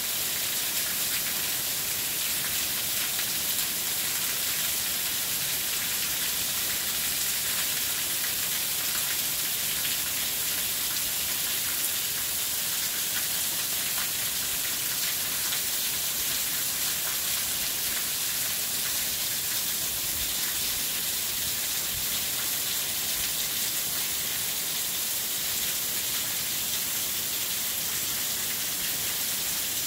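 Heavy downpour: rain falling hard, a steady, even hiss with no breaks.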